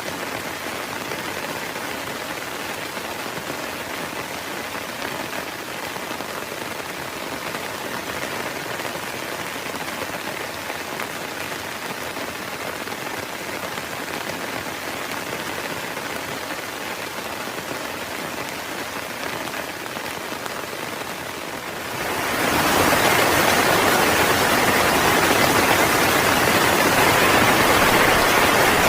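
Heavy rain falling steadily, an even hiss of drops on a surface. About two-thirds of the way through it abruptly becomes much louder and harsher, a sudden step up in the downpour that then holds steady.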